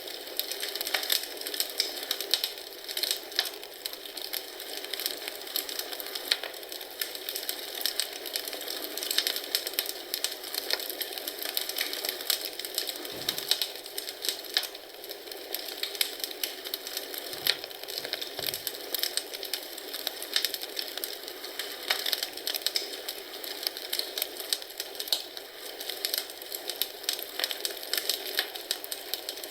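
Wood fire crackling in a fireplace: a steady hiss of burning with many small sharp pops and snaps, and a few soft low knocks about halfway through.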